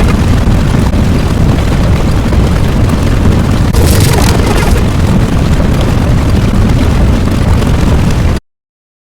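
Loud, continuous rumbling noise, heaviest in the low end, that cuts off suddenly to silence near the end.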